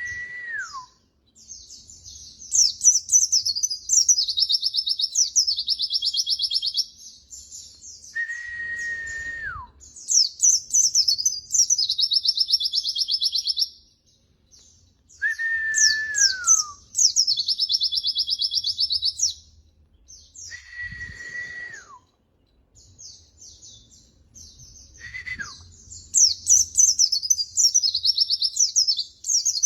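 Pleci (white-eye) song, repeated in phrases about every six seconds. Each phrase opens with a long whistled note that falls away at the end, then runs into a few seconds of fast, high twittering and trilling.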